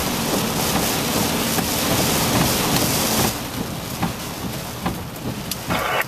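Storm wind and rain, a loud steady rushing that eases slightly about three seconds in.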